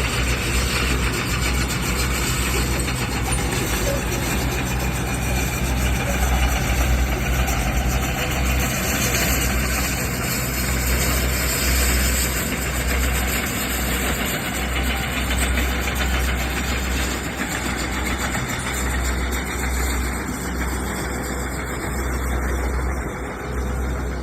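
Heavy earthmoving machinery at work on site grading, its engine running steadily with a deep, uneven low rumble.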